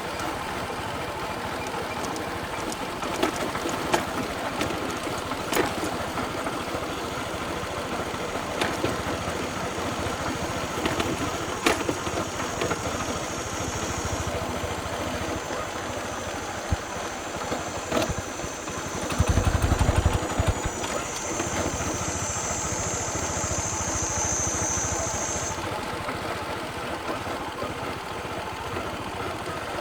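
Small motorcycle engine running steadily while riding along a rural road, with scattered clicks and knocks from the ride. A high, steady buzz sets in a little before the middle and stops about two-thirds of the way through. Around the two-thirds mark there is a brief, louder low rumble, the loudest moment.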